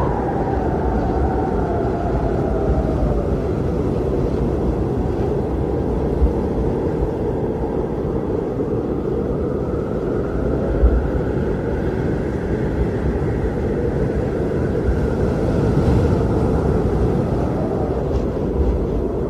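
Strong blizzard wind: a steady low rush with a howling whistle that slides down in pitch in the first few seconds and swells again later on.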